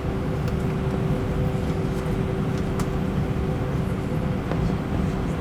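Steady cabin rumble inside an Airbus A320, heard from the rear seats, with the engines' even two-note hum over a low rumble, on the runway just after landing.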